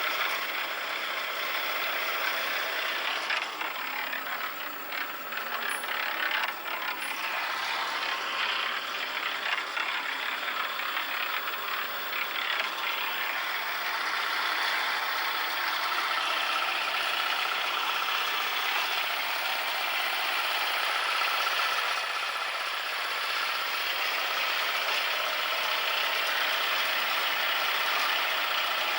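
Portable cement mixer running with its drum turning, a steady mechanical rattle, with a few sharper clicks in the first few seconds.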